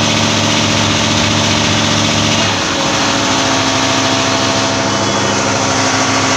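Window air-conditioner compressor running on test: a steady, loud electrical hum with overtones. About two and a half seconds in, the low part of the hum changes, then it runs on steadily.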